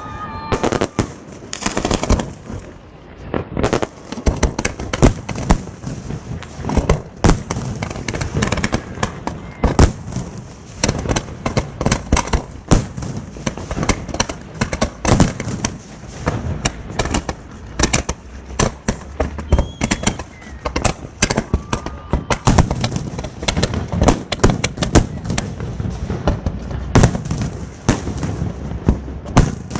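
Fireworks display: a continuous barrage of sharp bangs and crackling shell bursts, several a second.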